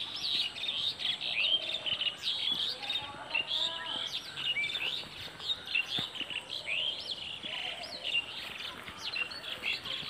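Small birds chirping and twittering: many short, rising calls overlapping one another.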